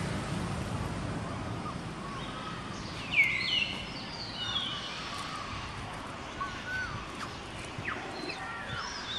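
Birds calling over a steady outdoor background hiss: short high, sweeping chirps, the loudest a quick run of them about three seconds in, with fainter calls later.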